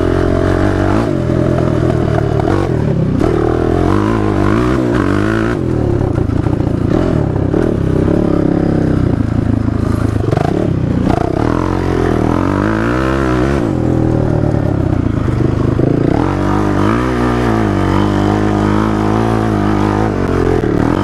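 450 cc four-stroke single-cylinder off-road engine being ridden hard on dirt, the revs climbing and dropping repeatedly as the throttle is opened and closed through the gears.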